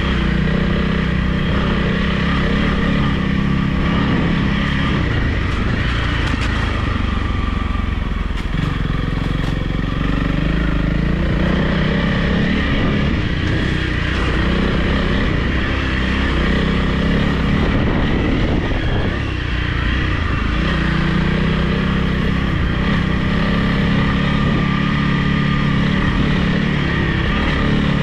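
Honda CRF300 Rally's single-cylinder four-stroke engine running as the bike is ridden, its note easing off briefly about six seconds in and again near nineteen seconds before picking back up.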